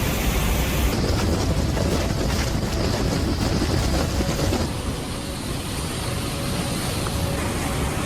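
Loud rushing roar of floodwater with wind buffeting the microphone. The texture changes abruptly about a second in and again just under five seconds in.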